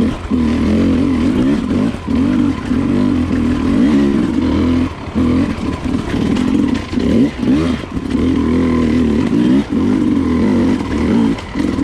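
Enduro dirt bike engine revving up and down as the rider works the throttle, with repeated brief chops off the throttle and pickups again.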